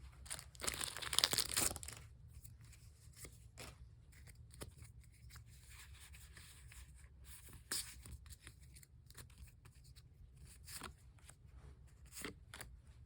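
Pokémon trading cards and their packaging handled: a brief loud tearing, crinkling burst about a second in, then light clicks and rustles as the cards are flipped through one by one.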